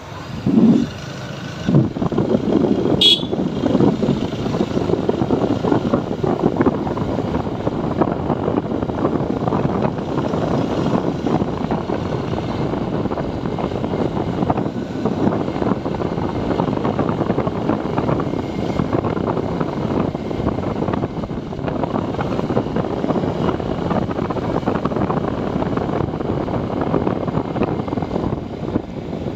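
TVS Apache 4V motorcycle riding along, engine running with steady road and wind noise. About three seconds in there is one short, sharp high sound.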